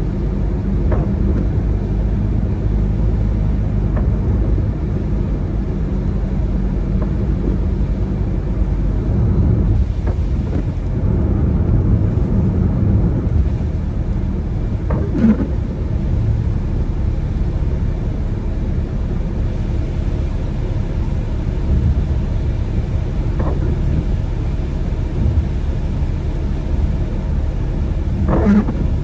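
Car driving on wet roads: a steady low rumble of road and engine noise, with a few brief squeaks or knocks.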